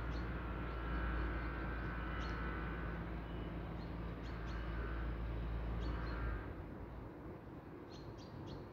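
Birds chirping in short, high calls, several close together near the end, over a low steady rumble that dies away about six seconds in.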